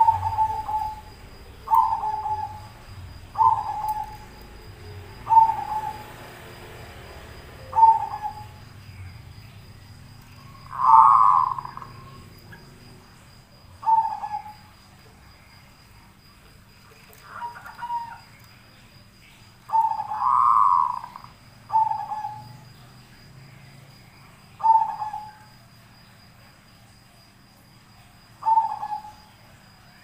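A bird giving short, low calls about a dozen times, one every second or two, with two longer, louder calls about a third and two-thirds of the way through.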